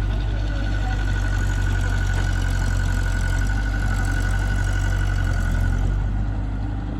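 Heavy diesel engine running steadily at a low, even speed, with a thin, steady high whine over it that stops about six seconds in.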